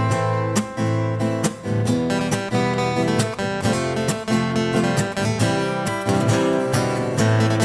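Instrumental intro of a sertanejo song: acoustic guitar strummed in a steady rhythm with other instruments, no singing.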